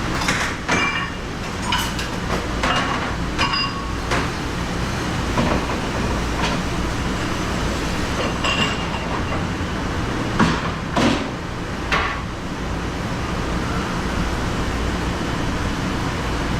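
Dishes and utensils clattering and clinking as they are handled at a restaurant dish station, over a steady low hum of kitchen machinery. The clinks come in bunches, a handful in the first few seconds and another group around the middle.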